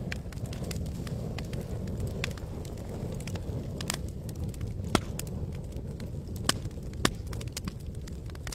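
Wood campfire crackling, with frequent sharp pops and snaps over a steady low rumble of burning. A few louder pops stand out in the second half.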